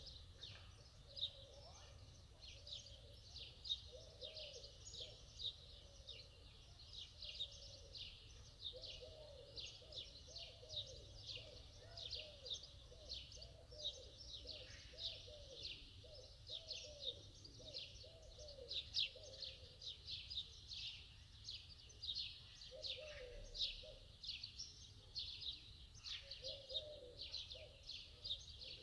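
Birds chirping: a continuous run of quick, high, faint chirps, with lower curved calls coming and going.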